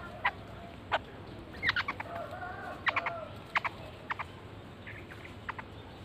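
Birds calling: short, sharp calls singly and in quick clusters of two or three, every second or so, with a brief lower wavering call about two seconds in.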